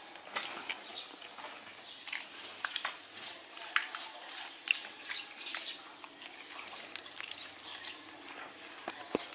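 Eating sounds close to the microphone: chewing and lip smacks on fried pork, with scattered sharp clicks at irregular intervals.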